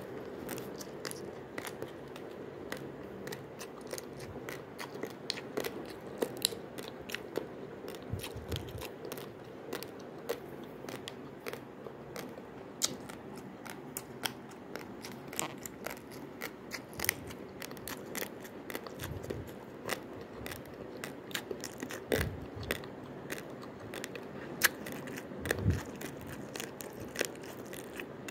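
Uncooked basmati rice grains being bitten and chewed close to the microphone: a steady run of sharp, irregular crunches over a faint steady hum.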